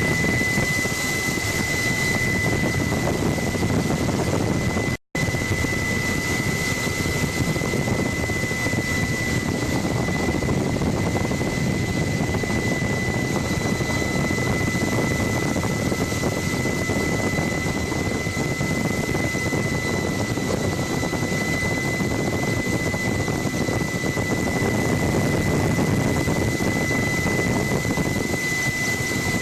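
Helicopter in flight heard from inside the cabin: steady engine and rotor noise with a constant high whine. The sound drops out for an instant about five seconds in.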